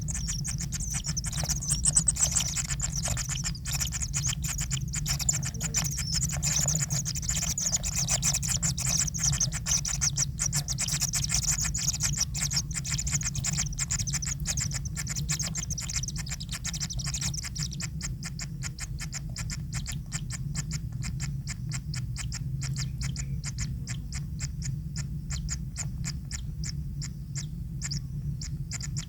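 Kingfisher chicks in the nest making rapid, ticking clicks. The clicks grow denser and more even in the second half. A high hiss fades about two-thirds of the way through, over a steady low hum.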